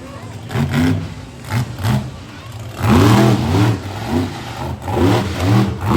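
Monster truck engine revving hard in repeated surges, its pitch climbing and falling with each blip of the throttle. The loudest surge comes about halfway through.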